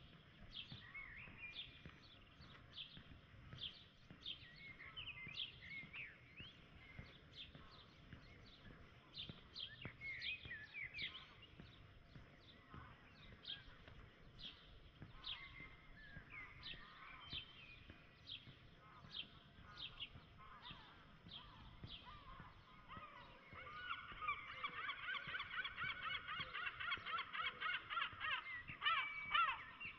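Birds calling: many short, high chirps and whistles, then, from about three-quarters of the way through, a louder fast run of repeated calls.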